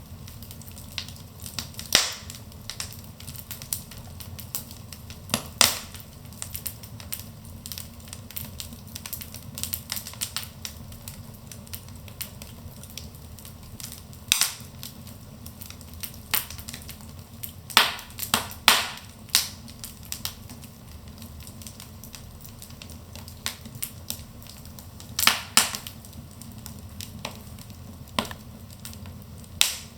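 Wood fire burning in a fireplace: a steady low rush of flames with irregular sharp crackles and pops of burning logs, a few of them much louder than the rest.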